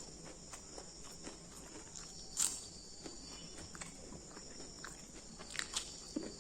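Close-up chewing and crunching of crunchy food, with sharp bites at irregular intervals, the loudest about two and a half seconds in and two more near the end. A steady high chirring of insects runs behind.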